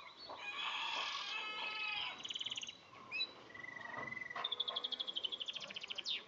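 Domestic canary singing a varied song: warbling phrases, a short fast high trill, a held whistled note, then a long rapid trill of about ten notes a second.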